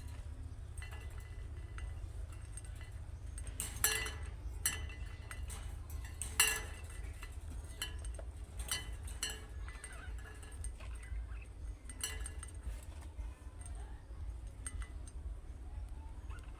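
Budgerigars chirping and chattering, with scattered short sharp chirps, the loudest about four and six seconds in. A steady low hum runs underneath.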